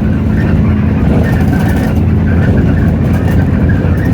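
Hino RK8JRVA-KJF city bus heard from inside, its 7.7-litre Hino J08E diesel engine running with a steady low drone. Light clicking and rattling come in from about a second in.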